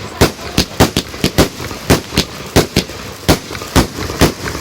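Fireworks going off in a quick, uneven run of sharp bangs, about a dozen in under five seconds.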